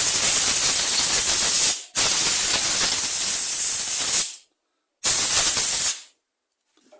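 Compressed air blowing out the passages of a Walbro diaphragm carburettor after cleaning: a loud hiss in three blasts, the last one short.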